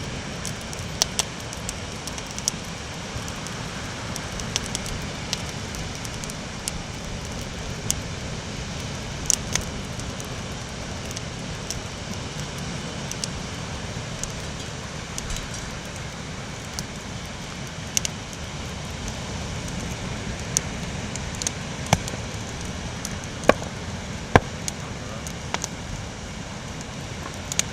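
Campfire crackling, with sharp pops at irregular intervals over a steady low rushing noise.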